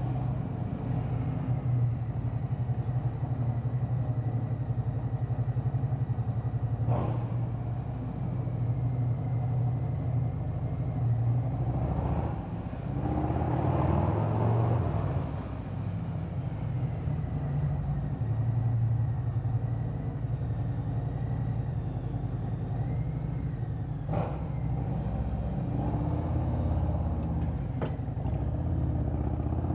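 Harley-Davidson Road Glide's V-twin engine running steadily while riding, with a brief rush of noise about halfway through and two short clicks.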